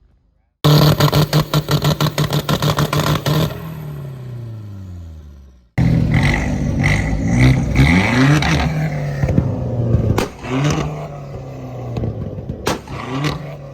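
A car engine revved hard and held high with a rapid stutter, then its revs fall away over about two seconds. After an abrupt cut, more revving rises and falls, with a few sharp exhaust pops among it.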